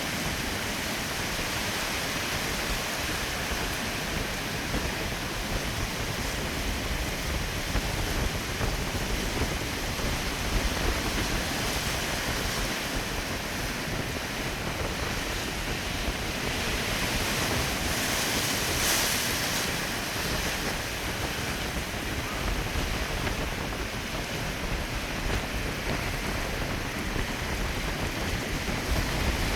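Strong storm wind buffeting the microphone with a low rumble, over the steady wash of Atlantic surf breaking beneath the pier; a brief stronger gust about nineteen seconds in.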